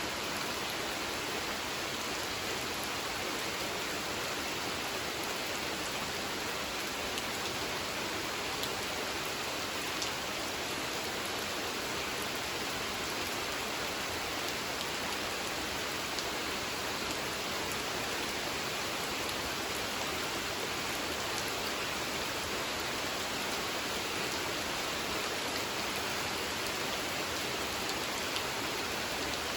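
Steady rain falling on a pond, an even hiss of water with scattered individual drop ticks.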